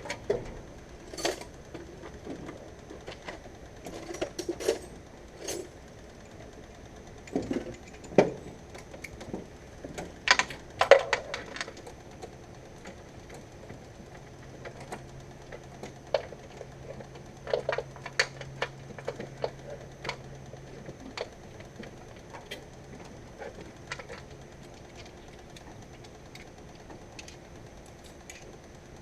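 Irregular metallic clicks, clinks and knocks of hand tools working on a car's wiring, some in quick runs, the loudest about ten seconds in; the body ground strap is being reconnected.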